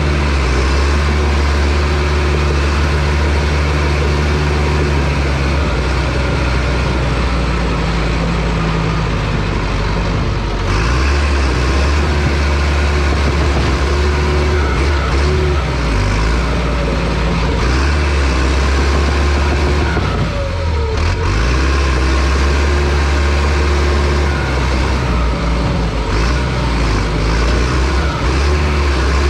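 Diesel engine of a John Deere crawler dozer running steadily under load. Its note shifts about eleven seconds in and dips briefly about twenty seconds in as the load changes.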